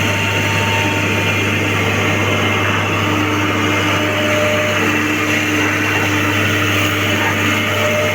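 A John Deere excavator's diesel engine running steadily, with a constant low drone and no breaks.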